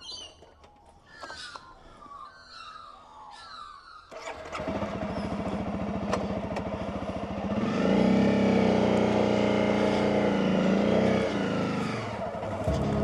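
Birds chirping, then about four seconds in a Honda CRF Rally's single-cylinder four-stroke engine starts up and runs. It is revved up around eight seconds in and drops back again near the end.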